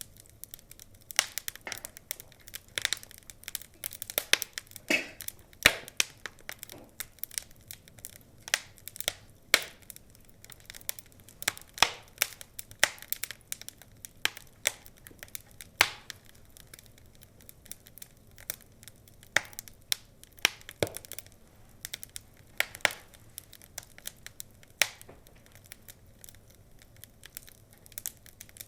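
Burning logs of a wood fire crackling, with irregular sharp pops and snaps, a few of them much louder than the rest.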